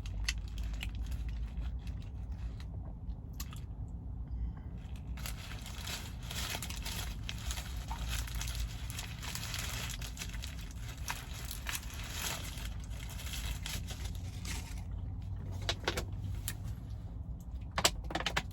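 Eating noises, chewing and the handling of a burger and wrapper, with scattered faint clicks and rustles over a steady low rumble.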